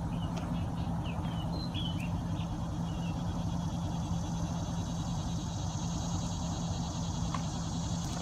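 Birds chirping several times in the first three seconds, over a steady low hum and a faint, steady high-pitched insect drone.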